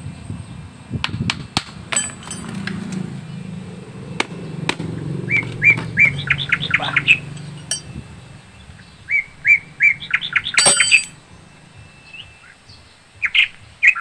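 A small bird chirping in quick runs of six to eight notes, twice, with a few more chirps near the end. Over this come sharp metallic clicks and one ringing clink, from tools or parts being handled.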